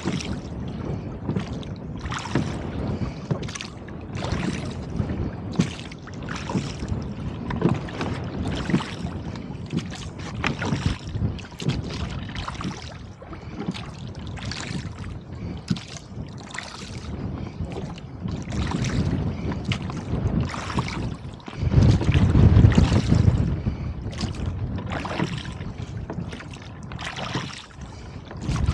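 Choppy wind-driven water slapping and splashing against a rowboat about once a second, over a steady low wind rumble on the microphone. A stronger gust gives a louder rumble a little past two-thirds of the way through.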